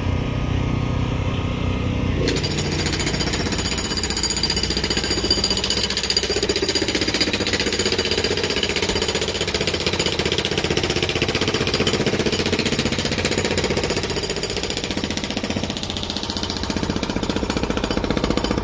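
Jackhammer hammering rapidly and continuously, starting about two seconds in, over a low engine hum.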